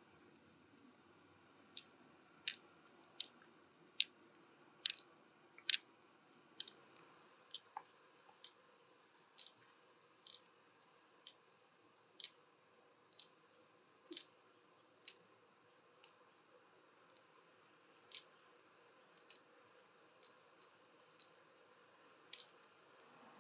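Sharp, light clicks, roughly one a second at uneven intervals, over a faint steady high whine.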